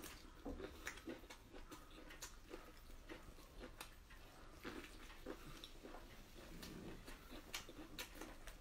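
Faint chewing and biting of a large sheet of raw kelp, heard as a scattering of small, irregular mouth clicks and smacks.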